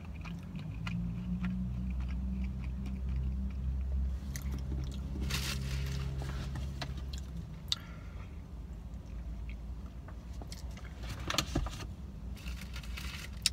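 A person chewing a mouthful of sandwich over a low vehicle engine hum that swells over the first few seconds and fades about halfway through. There are scattered small clicks, with short rustles about five seconds in and near the end.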